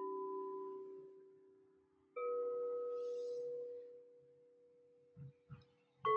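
Singing bowls struck three times, at the start, about two seconds in and just before the end, each at a different pitch and ringing on with a steady, slowly fading tone. Two soft low knocks come just before the last strike.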